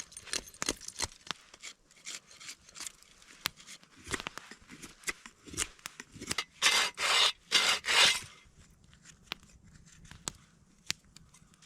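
Knife whittling wood into a spoon: a series of short scraping cuts, with three longer, louder shaving strokes in a row a little past the middle.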